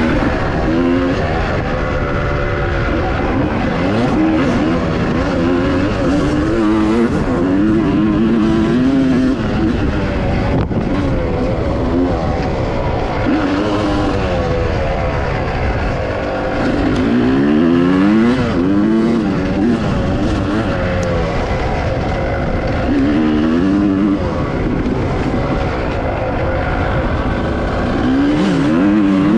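Dirt bike engine running while riding, its pitch rising and falling again and again as the throttle opens and closes.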